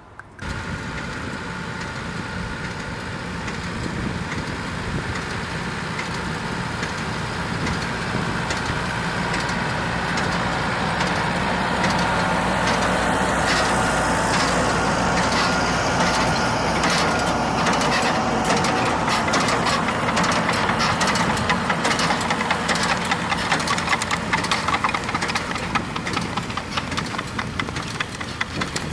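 Tractor engine running with a Takakita manure spreader at work spreading compost. From about halfway through, a fast, busy clatter from the spreader's mechanism and flung material rises over the engine.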